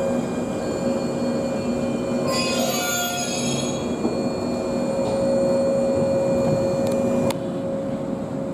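Train moving through the station, its steel wheels squealing on the rails over a steady set of high tones, with a harsher burst of squeal between about two and three and a half seconds in. A sharp click comes near the end.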